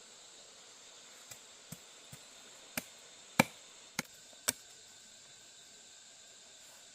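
About seven sharp chopping strikes, irregularly spaced over a few seconds, the one about halfway through the loudest, over a steady high insect-like buzz.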